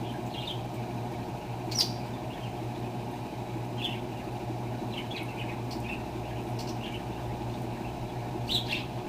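Electrolux LTR10 top-loading washing machine running with a steady low hum. Short high chirps or squeaks come now and then, the sharpest just under two seconds in and near the end.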